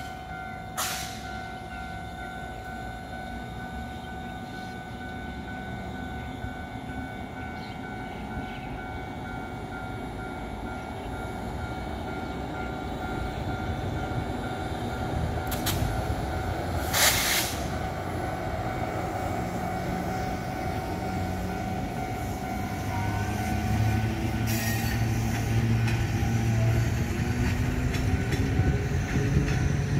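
Train running, with a steady whine and a rumble of wheels on rail that slowly grows louder. A few sharp clatters break through, the loudest about seventeen seconds in.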